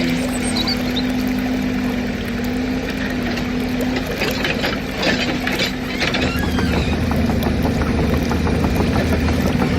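A motor running steadily on one tone, with a rush of scraping noise, like sand being scooped or poured, from about four to six seconds in, and a deeper hum strengthening after that.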